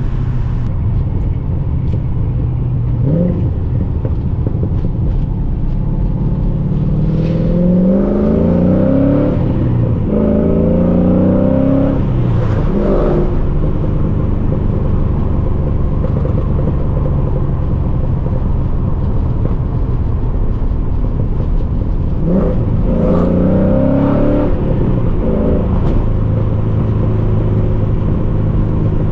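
LS1 V8 in a BMW E36 accelerating through the gears of its T56 manual gearbox: the exhaust note rises in pitch, breaks at a shift and rises again. It then settles into steady cruising, with another short pull near the end.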